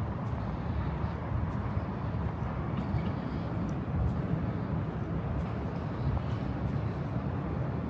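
Steady low rumble of outdoor city background noise, with faint ticks higher up.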